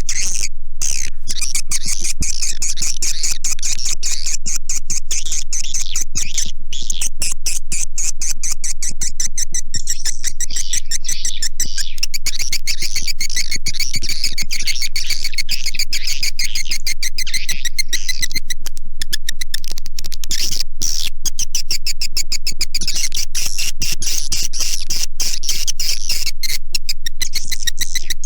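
A swiftlet calling track of the kind played to lure birds into a swiftlet house: a dense, unbroken chatter of rapid high chirps and clicks.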